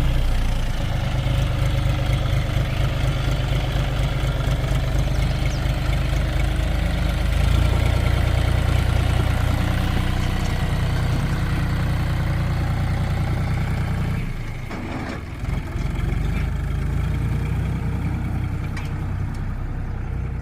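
John Deere 5045 tractor's three-cylinder diesel engine running steadily. About two-thirds of the way through, the engine note drops briefly, then picks up again.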